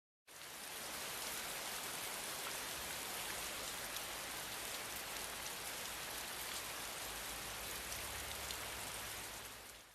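A steady hiss like rain falling, with a fine crackle of tiny ticks through it, fading in just after the start and fading out near the end.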